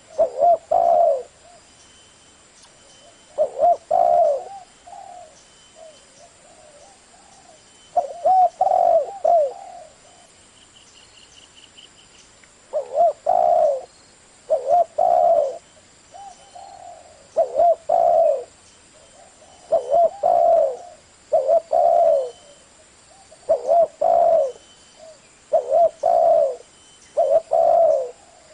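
Spotted dove cooing: short low phrases repeated again and again, with longer pauses in the first half and a quicker run of calls in the second. A faint short high trill sounds once near the middle.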